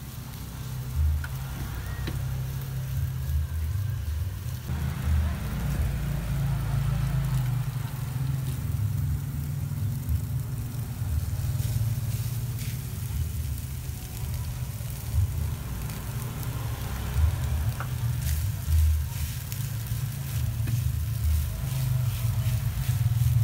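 Sausage slices, egg and rice sizzling as they fry in a pan on a gas stove, with a spatula stirring and scraping and now and then knocking on the pan. A low, steady rumble runs underneath and is the loudest part.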